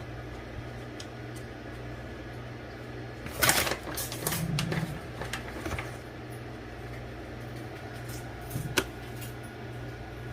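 Kitchen handling sounds over a steady low hum: a short burst of clatter and rustling about three and a half seconds in, softer scattered handling after it, and one sharp click near the end.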